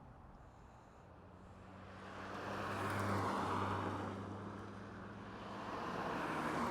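Road traffic passing: vehicles swell up to a peak about three seconds in, fade, and build again near the end. Under them runs a steady low hum.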